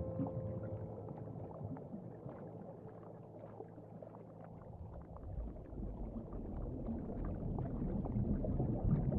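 Ocean water ambience: a crackly, rushing wash of water that dips midway and swells again. The last held notes of soft music fade out under it during the first half.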